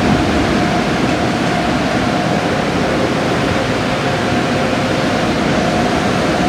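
Car wash equipment running: a loud, steady rush with a thin, constant whine over it.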